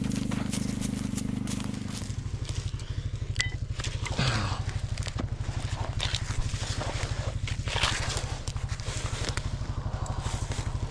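Coleman UT400 UTV engine running; about two seconds in the revs drop and it settles into an even, pulsing idle, with a few light scrapes and clicks over it.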